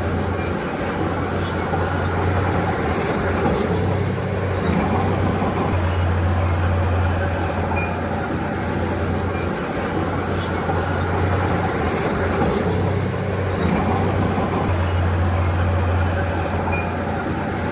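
Diesel engine of a Komatsu D31P crawler bulldozer working, a steady low drone that swells and eases every few seconds as the load changes, with scattered small clicks and squeaks over it.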